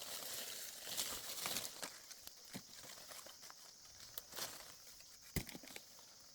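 Rustling and light knocks of things being handled, with a sharp tap about five seconds in.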